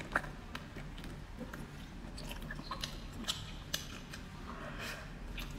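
A person biting into a sausage and chewing mouthfuls of food, heard as scattered sharp mouth clicks, the loudest just after the start.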